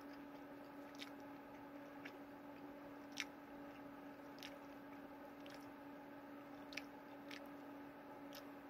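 A person quietly chewing a bite of meat stick with the mouth closed: faint wet mouth clicks and squishes about once a second, a few sharper than the rest, over a steady low hum.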